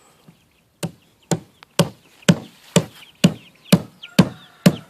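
Steady chopping, about nine hard strikes roughly two a second, as a blade hacks at a slaughtered bird's neck to cut it off.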